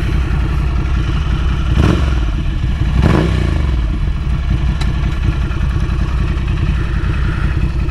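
Ducati Scrambler Café Racer's L-twin idling steadily through a Vance & Hines slip-on exhaust, while a passing truck's noise swells and falls in pitch around the middle.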